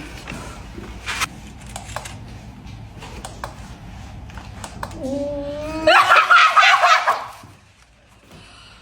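A few faint clicks, then about five seconds in a person breaks into loud laughter lasting about two seconds, unable to hold a straight face.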